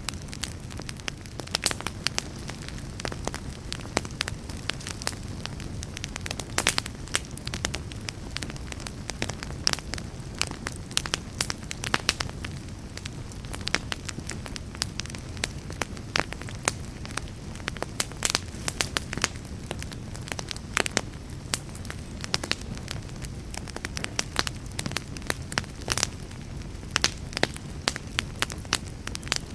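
Campfire burning with a steady low rumble and many sharp crackles and pops at irregular intervals, some much louder than the rest.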